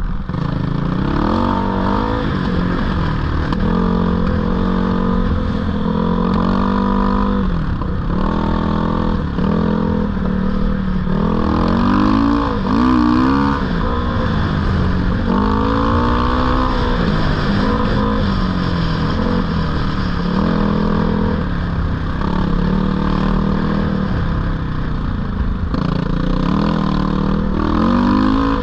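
GPX 450R four-stroke single-cylinder dirt bike engine running under load while being ridden, its revs rising and falling again and again as the throttle is opened and closed.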